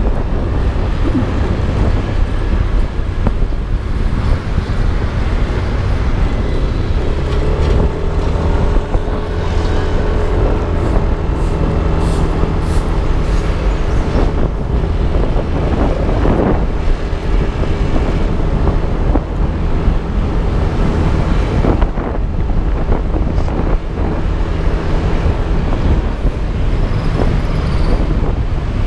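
Riding noise on a Yamaha Aerox 155 scooter in traffic: a steady, loud low rumble of engine, road and wind on the camera microphone. A pitched engine hum swells and fades about eight to ten seconds in.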